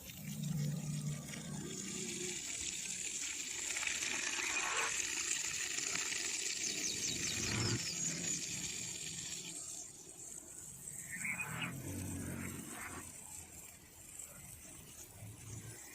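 Running water, with a rushing hiss that swells for several seconds and drops away at about ten seconds, and a few short bird chirps, one of them a little after eleven seconds and another near the end.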